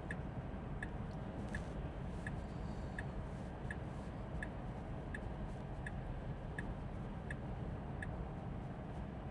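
A Tesla Model 3's turn-signal indicator ticking steadily, about one tick every three-quarters of a second, while the car changes lanes. A steady low road rumble runs underneath, heard from inside the cabin.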